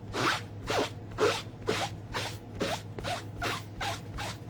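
Squeaky back-and-forth scrubbing, about two to three strokes a second, with a short squeak on many strokes, as ink is washed off a stamping pad.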